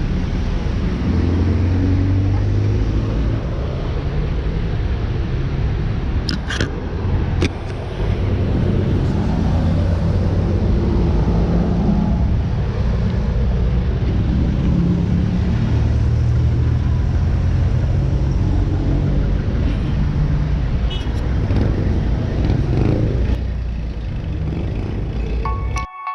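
Motor vehicle engine running with road noise, its pitch shifting up and down, and two sharp clicks about six and seven seconds in.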